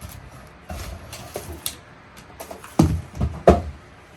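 A drone's packaging handled during unboxing: irregular rustling and scraping, with a few knocks, the two loudest about two thirds of the way through.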